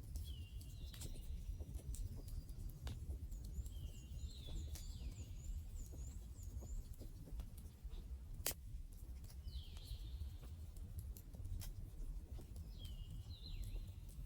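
Wood campfire burning: scattered crackles over a low rumble, with one sharp pop a little past the middle. A songbird repeats a short whistled phrase about four times, and a quick run of high chirps sounds in the middle.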